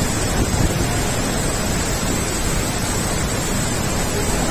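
Heavy rain pouring down in a storm, a steady, dense rush of noise, heard from inside a moving vehicle.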